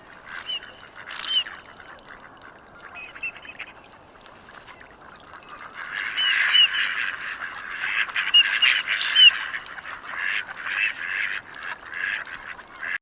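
A flock of mallards calling, with many quacks and calls overlapping. The calling is sparse at first and grows much busier and louder about six seconds in.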